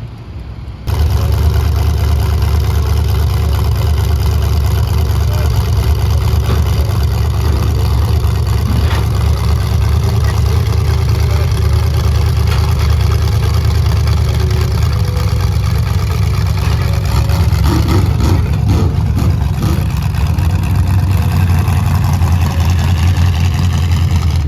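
A loud engine running steadily at an even speed, cutting in abruptly about a second in.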